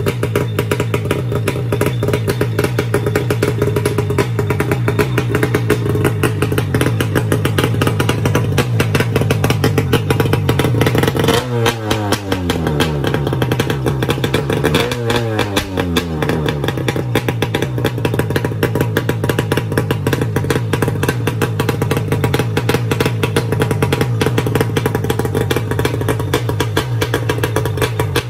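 Kawasaki 650 X2 650cc two-stroke engine running steadily through an expansion-chamber exhaust. It is blipped twice, about eleven and fifteen seconds in, and the pitch falls back after each blip.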